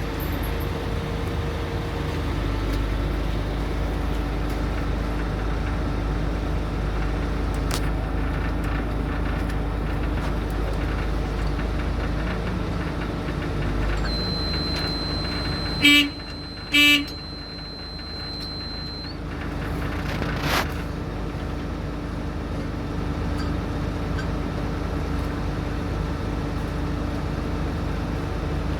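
Heavy construction machine engine running steadily with a low rumble. Midway through, a vehicle horn gives two short toots about a second apart.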